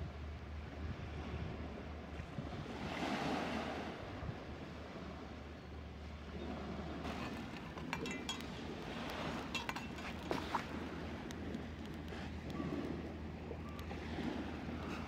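Waves washing on a sandy beach, with wind on the microphone and a steady low rumble underneath. A few light clicks come around the middle.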